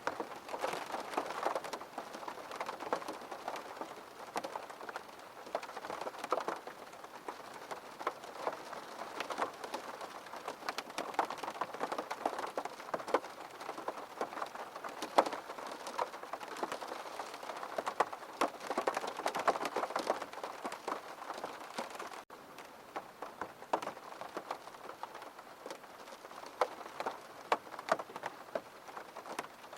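Steady rain, with many separate drops striking a hard surface close by in an uneven, dense tapping. There is a split-second gap a little past two-thirds of the way through.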